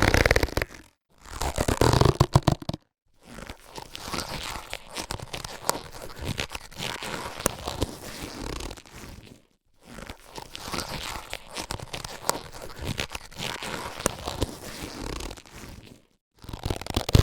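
Latex surgical gloves being handled, rubbed and stretched, a run of crinkly rubbing with small sharp clicks and snaps. Two short, louder bursts in the first three seconds are followed by two longer stretches of quieter rubbing, and another short loud burst comes near the end. Each is set apart by a brief gap of silence.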